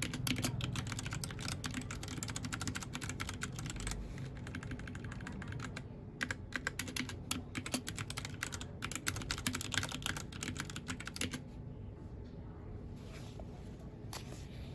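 Mechanical keyboard typing in quick runs of key clicks. There is a short pause about four seconds in, and the typing stops about eleven seconds in, leaving only a stray click or two.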